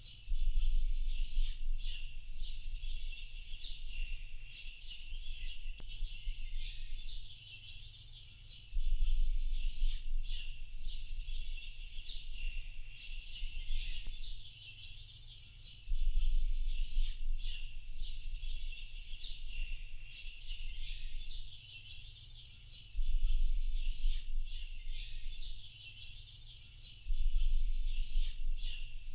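A dense chorus of many small birds chirping and calling together, high-pitched and continuous. Under it, a low rumble cuts in abruptly several times and lasts a few seconds each time; this is the loudest part.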